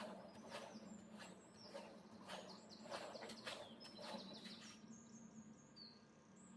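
Faint twittering of a small bird in short high chirps and trills, over a steady low hum, with soft rustling and clicks that stop about five seconds in.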